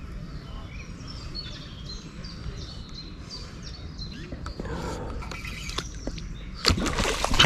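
Small birds chirping and singing over a steady low rumble. Near the end a sudden burst of loud rushing noise takes over.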